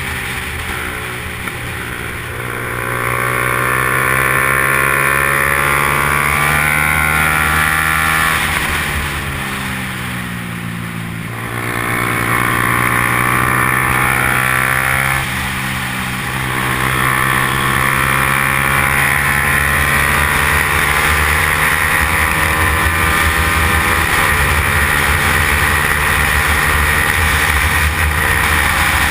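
Yamaha R15's single-cylinder four-stroke engine at racing speed, its pitch climbing and dropping again and again as the bike accelerates, shifts and slows for corners. There is a longer, quieter dip about ten seconds in.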